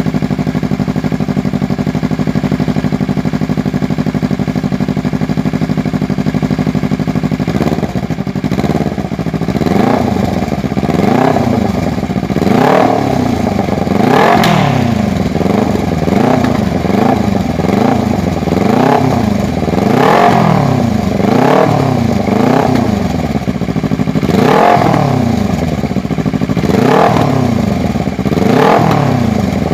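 Kawasaki Ninja 300 parallel-twin engine with an aftermarket exhaust, idling steadily. From about eight seconds in, the throttle is blipped over and over, the engine revving up and falling back about once every second and a half.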